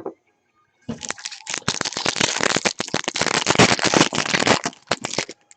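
Crinkling, crackling wrapper of a trading card pack being handled and opened. It starts about a second in and lasts about four seconds.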